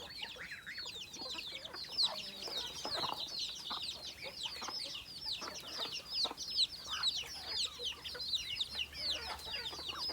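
A flock of chickens being fed moringa leaves mixed with rice bran: a dense, continuous stream of short, high, falling peeps with occasional lower clucks.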